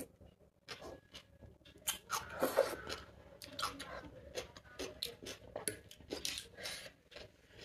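Close-up eating sounds: chewing and wet mouth clicks and smacks as a mouthful of chicken biryani and raita is eaten. The clicks come irregularly, with a louder, busier stretch about two seconds in.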